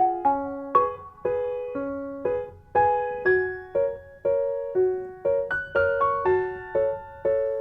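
Background piano music: a light, unhurried melody of single notes and small chords, about two a second, each struck and fading.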